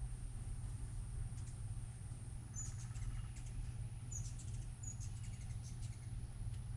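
Hummingbirds chipping: a few short, high chirps over a steady low hum.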